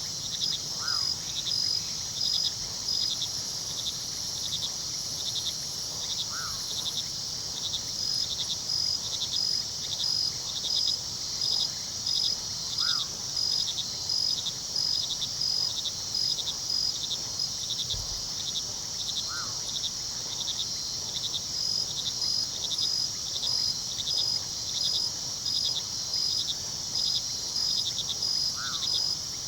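Night chorus of crickets: a steady high trill with a rhythmic chirp about one and a half times a second, over a low rush of river water. A short call repeats about every six seconds.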